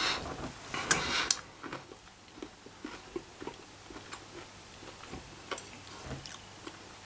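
A person chewing a mouthful of thick ramen noodles, with a brief louder sound about a second in, then soft, faint mouth clicks as the chewing goes on.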